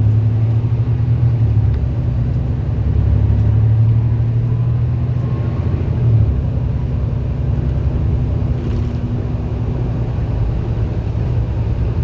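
MAN A91 bus's diesel engine running under way, a steady low drone that grows louder around four seconds in, gives a brief bump about six seconds in, and then eases off a little.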